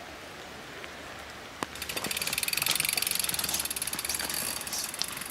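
Mountain bike rear hub freewheeling: its ratchet pawls make a fast, even buzz of clicks as the bike coasts. The buzz starts sharply after a single click a little under two seconds in and tails off slightly toward the end.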